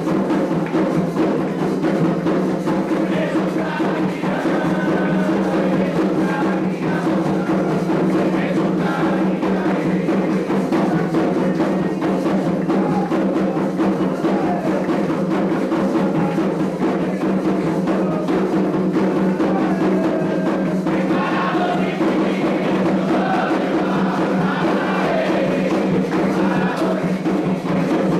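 Candomblé ritual music: atabaque hand drums beating a fast, steady rhythm under voices singing a sacred song.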